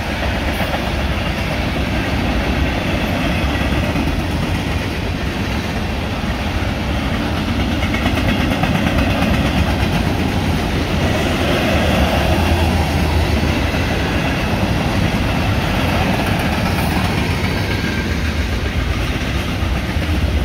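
Freight cars of a mixed freight train (tank cars, covered hoppers and boxcars) rolling past: steady, loud noise of steel wheels on the rails, swelling a little about halfway through.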